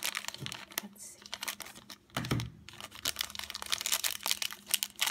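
A Hello Kitty blind bag's wrapper crinkling and crackling in quick runs of small snaps as it is handled and torn open, with a short lull about two seconds in.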